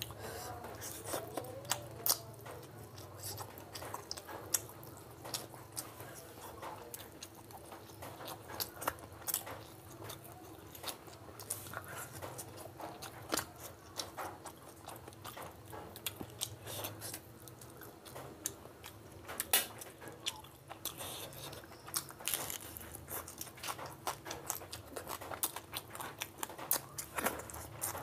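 Close-miked chewing and biting: a person eating rice and fish curry by hand, with many irregular sharp, wet mouth clicks.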